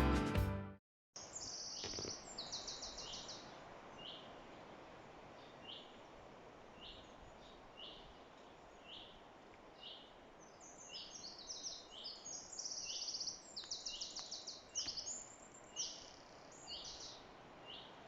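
Wild birds singing in woodland after a piece of guitar music ends about a second in: one bird repeats a short, falling high note about once a second, while others put in bursts of quick, trilling song, busiest in the second half.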